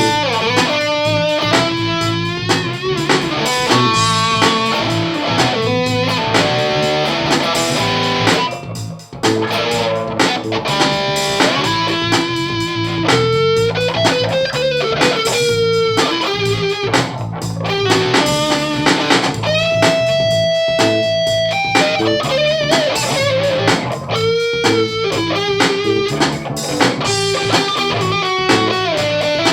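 Jazzmaster electric guitar played through a treble booster and a Mooer Cruncher distortion pedal into a Sovtek 50 tube amp and Egnater cabinet: distorted lead lines of held notes with bends and vibrato, briefly dropping away about nine seconds in.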